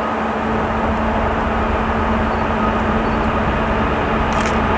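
A train approaching on an electrified line: a steady rumble with a hum through it, slowly growing louder as it nears.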